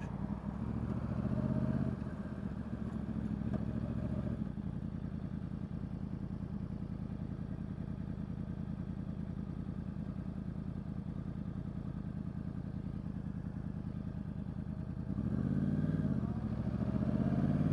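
Yamaha R1 inline-four engine running at low road speed, with the revs rising briefly about a second in and again near the end.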